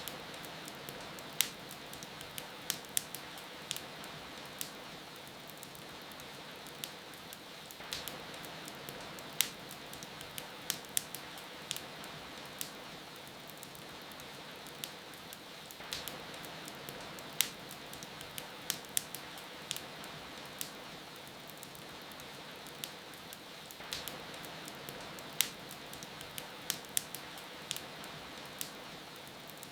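Wood fire crackling, with frequent sharp irregular pops, over a steady hiss of falling rain.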